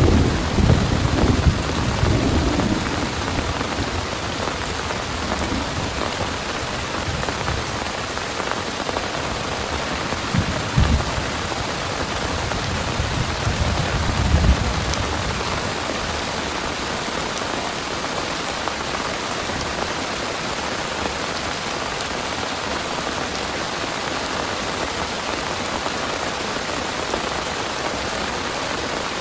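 Steady heavy rain pouring down in a thunderstorm. Thunder rumbles at the start and fades within the first few seconds, and two brief low rumbles follow about a third and halfway through.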